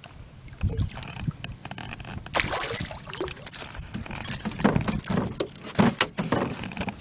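Water splashing and knocks in a canoe while a hooked bass is played in. The splashing starts suddenly about two and a half seconds in, with sharp clicks and knocks through it.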